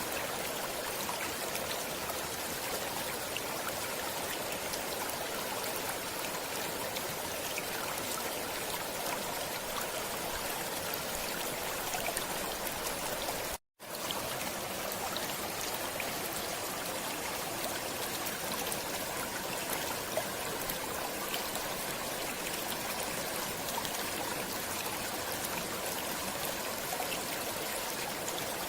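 Stream water running steadily, a continuous rushing, babbling sound that cuts out completely for a split second about halfway through before resuming.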